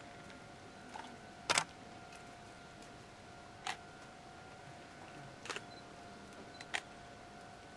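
Five sharp, isolated clicks at irregular intervals, the loudest a quick double click about a second and a half in, over a faint steady electrical hum.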